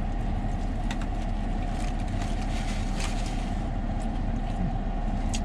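Steady low rumble of a running engine, with a few faint clicks about one, three and five seconds in.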